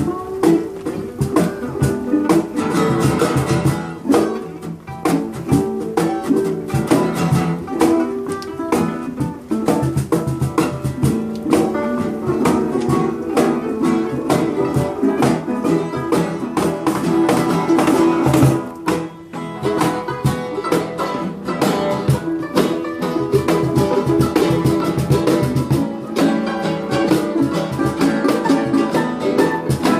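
Live jam session: guitar strummed and plucked fast and continuously.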